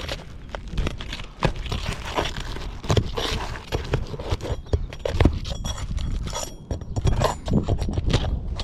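Roofing nails being pried out from under brittle asphalt shingles: irregular scraping, crackling and metal clinks, with handling knocks.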